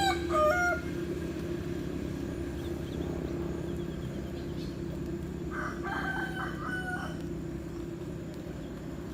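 Roosters crowing: the tail of a loud crow in the first second, then a second, fainter crow about five and a half seconds in, over a steady low hum.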